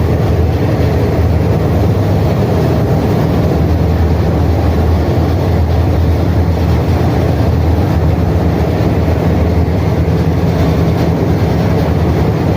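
High-speed ferry's MAN diesel engines running steadily at speed, a loud low drone under the rushing noise of the propeller wash.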